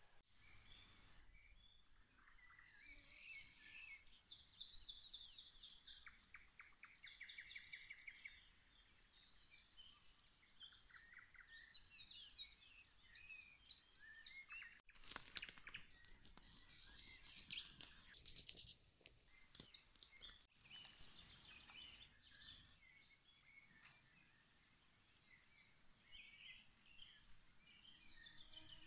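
Several small birds singing and chirping, with short whistles and quick repeated trills, over faint background hiss. A stretch of rustling noise comes in the middle.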